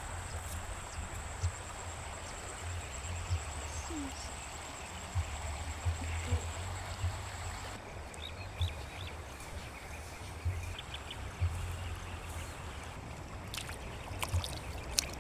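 Outdoor ambience: a steady hiss with an uneven low rumble on the microphone. A thin, steady high-pitched tone stops about halfway through, and a few faint chirps follow.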